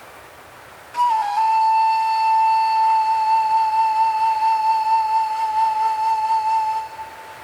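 A flute holding one long note with a gentle vibrato, sliding slightly down into pitch about a second in and stopping near the end, over a soft wind-like hiss.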